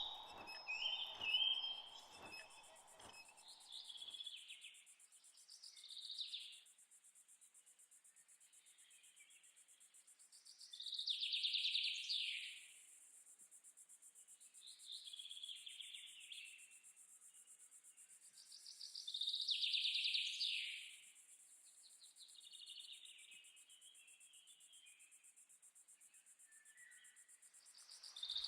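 Daytime outdoor ambience: songbirds chirping in short phrases every few seconds, the loudest about 11 and 20 seconds in, over a steady high-pitched insect drone.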